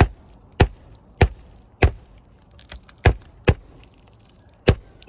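Hammer driving roofing nails into a replacement 3-tab shingle: seven sharp strikes about six-tenths of a second apart, with a short pause after the fourth.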